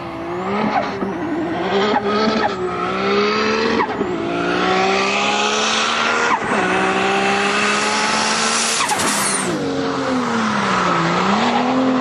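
Big-turbo Toyota Supra engine accelerating hard through the gears. The engine note climbs and then drops sharply at each upshift, roughly every two seconds, four times. Near the end it falls away as the throttle eases, then settles into a steady lower note.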